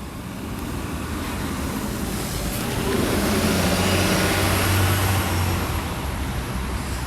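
A motor vehicle driving past on a city street: engine hum and tyre noise that build up over the first few seconds, peak around four to five seconds in, then ease off slightly.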